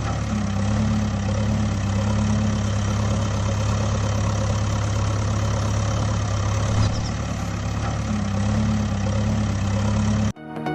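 Heavy vehicle engine running steadily at idle with a low hum, cutting off abruptly near the end.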